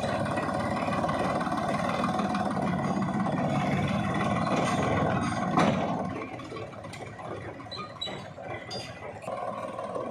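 Engine of heavy earth-moving machinery running steadily, loud for the first six seconds, then dropping to a quieter level after a sharp knock, with scattered clicks afterwards.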